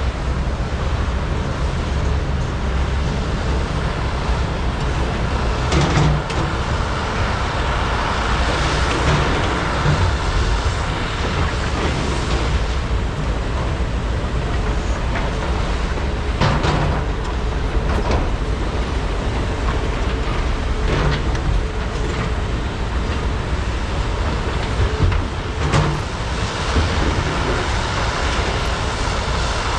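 Diesel engines of large hydraulic excavators working hard under load as they dig and load trucks, a steady heavy drone. Several sharp knocks and clanks stand out above it now and then.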